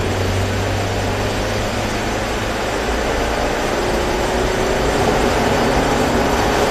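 Mazda 3 1.6 four-cylinder engine heard from inside the cabin, accelerating out of a corner, with steady tyre and road noise on a wet track. The engine note climbs and gets a little louder about four to five seconds in.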